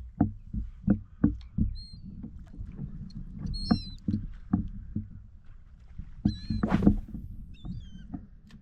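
A run of quick knocks and thumps on a kayak, about three a second at first and then more scattered, with a louder splashy burst near the end. Birds give high, gliding calls several times over it.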